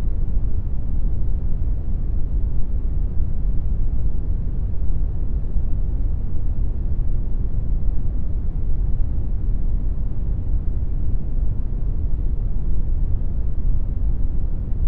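Synthetic brown noise: a steady, even rumbling hiss, strongest in the low end and falling away toward the treble.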